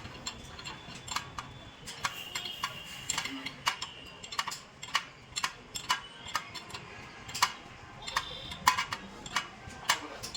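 Irregular series of sharp metallic clicks and light taps, about two or three a second, with a faint high tone twice in between.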